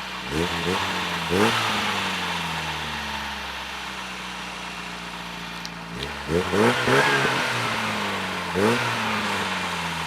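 VW Golf Mk1's petrol engine revving up three times in quick climbs, each one followed by a slow, drawn-out fall in pitch.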